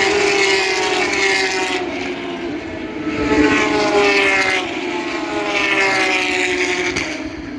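Porsche 911 GT3 Cup race cars' flat-six engines at full throttle as they pass one after another, each high engine note dropping in pitch as a car goes by. Three main passes come in quick succession.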